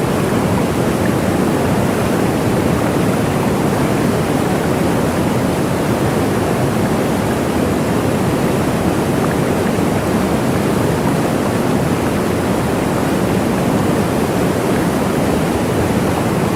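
Waterfall: water falling and splashing, a steady deep rushing with no change in level.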